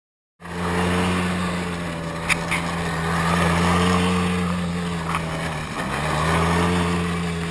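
A motor vehicle engine running at a steady speed, with its pitch dipping briefly about six seconds in.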